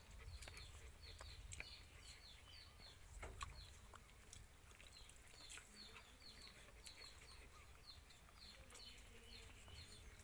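Near silence, with faint, short falling chirps of a bird repeating a few times a second.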